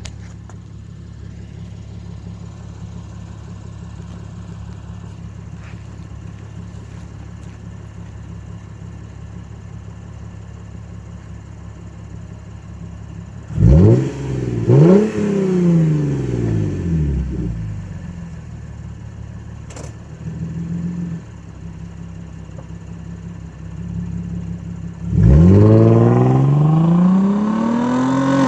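Straight-piped 2.5-litre V6 of a Lexus IS250 with its muffler deleted, idling steadily. About halfway through it is revved hard twice, the pitch shooting up and falling back. Near the end it pulls away under hard acceleration, the note rising loudly until a gear change.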